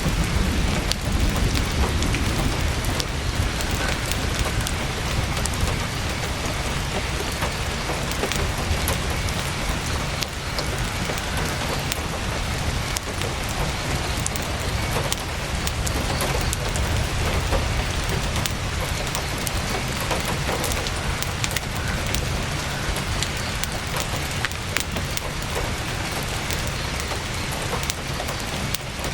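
Heavy rain falling on a tent's fabric: a steady, even hiss with scattered sharp ticks of single drops over a low rumble.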